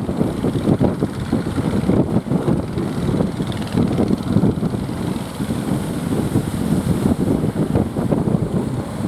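Strong wind buffeting the microphone: a loud, rough rumbling rush that swells and dips unevenly.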